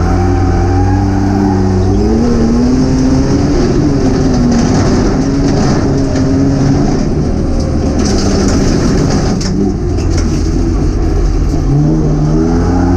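Folk race car's engine heard from inside its stripped, roll-caged cabin, revving hard, its pitch rising and falling as the car is driven over a gravel track, with a few sharp ticks around nine to ten seconds in.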